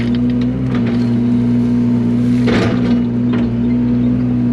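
Yanmar mini excavator's diesel engine running steadily at working speed, with a short harsh scrape a little over halfway through as the grading bucket works the ground, and a few faint clicks.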